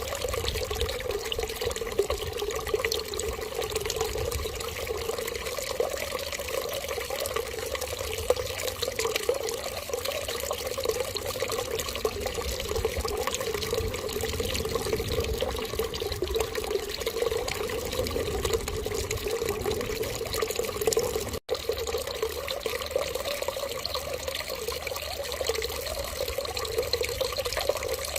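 Steady running water, an even continuous splashing flow, with a momentary dropout about three quarters of the way through.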